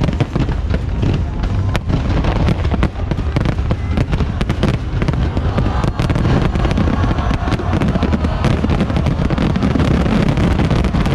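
Aerial fireworks going off in quick succession: a dense, unbroken run of bangs and crackles over a low rumble.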